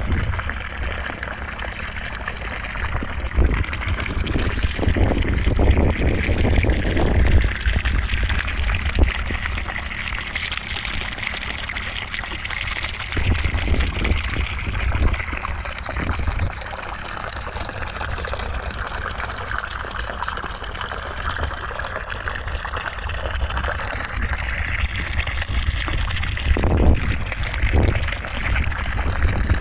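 Continuous rushing noise of the gushing, water-like kind played as white noise, steady in level with a low rumble underneath. A brief faint knock comes near the end.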